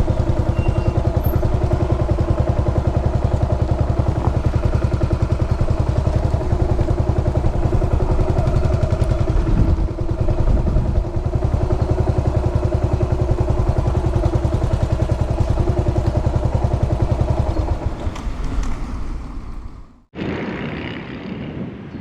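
2003 Yamaha SR400's air-cooled single-cylinder engine running with a steady, even beat. About eighteen seconds in it quietens, and after a sudden cut near the end there is wind noise on the microphone.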